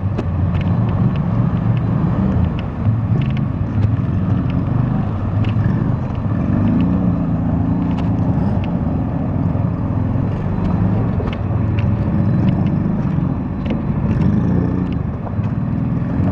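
All-terrain vehicle engines running under load as the quads ride, with scattered clicks and knocks through it.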